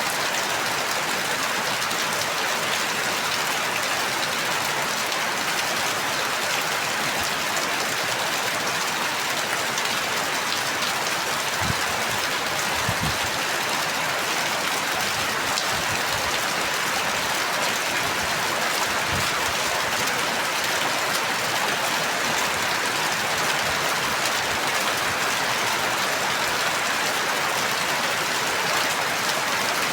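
Steady, even rainfall. A few soft low thuds come through in the middle.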